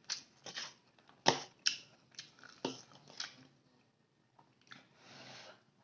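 Close-up mukbang eating sounds: chewing fried rice and tapping a utensil on the plate, a string of sharp irregular clicks over the first few seconds. A soft hiss follows about five seconds in.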